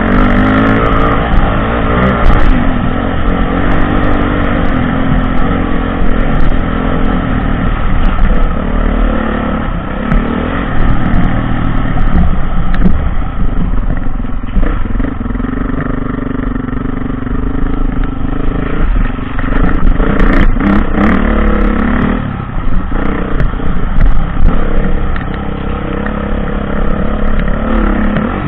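Dirt bike engine running hard, its pitch rising and falling over and over as the throttle opens and closes, with a few sharp knocks about two-thirds of the way through.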